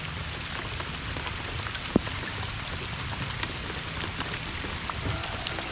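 Rain falling steadily on the lake and boat: a continuous hiss dotted with small drop ticks, with one sharper tap about two seconds in.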